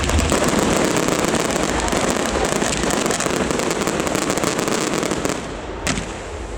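Fireworks going off in a dense, continuous barrage of crackles and pops, thinning out about five seconds in, followed by a single sharp pop.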